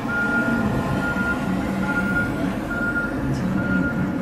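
Backup alarm on a Case tractor beeping steadily, five evenly spaced beeps about one a second, over the tractor's engine running.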